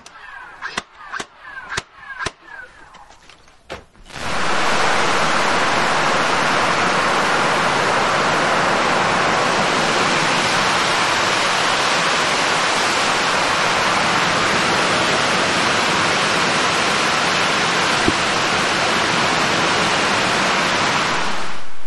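A cordless stapler fires about five quick shots into the wooden door frame. About four seconds in this gives way abruptly to a torrential rainstorm: heavy rain pouring down in a loud, steady rush.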